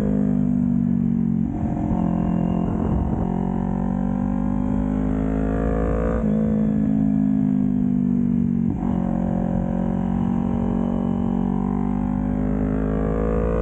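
Motorcycle engine running under load, its note rising and falling with the throttle. There are sharp changes in the note about one and a half, three, six and nine seconds in.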